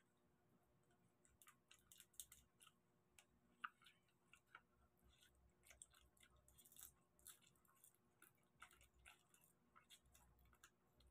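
Faint eating sounds of two people chewing garlic butter prawns and spaghetti: scattered, irregular wet smacks and clicks of mouths and fingers.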